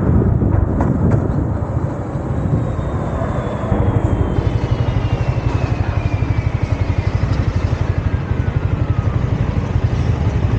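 Yamaha MT-15's single-cylinder engine and exhaust, with wind noise as the bike rolls. About four seconds in, it settles into an even, rapid pulsing, like an engine at low revs or idle. A faint whine falls slowly in pitch through the middle.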